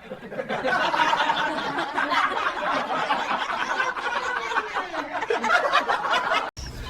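Several people laughing and snickering together, cut off suddenly about six and a half seconds in.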